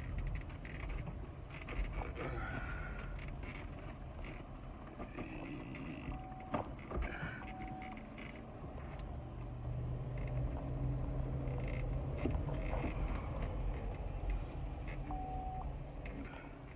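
A vehicle's engine running steadily, the low rumble swelling for a few seconds past the middle, with scattered clicks and three short beeps of the same pitch.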